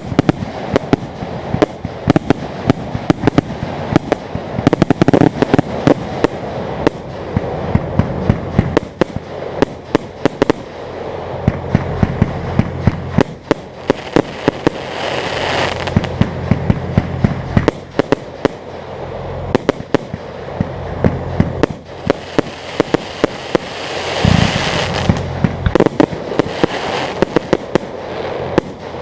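Fireworks display: a dense run of sharp bangs and crackles throughout, with thicker bursts of crackling about halfway through and again near the end.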